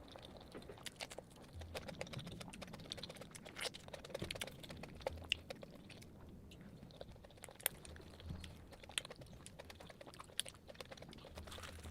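Close-miked chewing and mouth sounds of someone eating fried flatbread with potato curry: many irregular small wet clicks and smacks.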